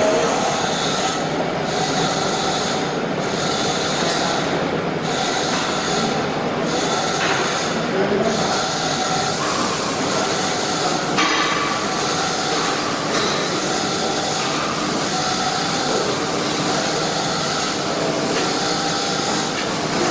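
Steady welding-shop noise: an arc welding hiss and crackle, with a high hiss that cuts in and out roughly every second or so.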